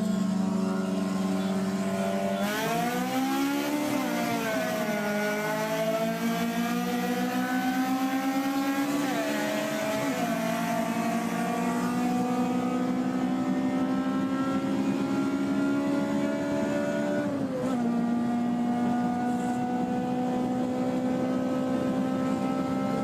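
Honda K20 four-cylinder engine pulling hard under acceleration. After a brief rev up and down, its pitch climbs slowly and steadily, dropping sharply at gear changes about ten seconds in and again near eighteen seconds, then climbing again.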